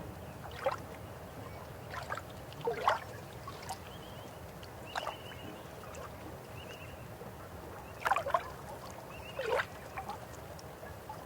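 River water flowing steadily, with irregular louder gurgles and splashes every second or two.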